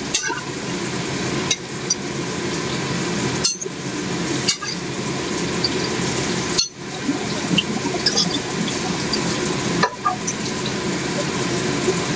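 Food sizzling and frying in a pan while it is stirred, a steady hiss with a few light clicks of a utensil against the pan.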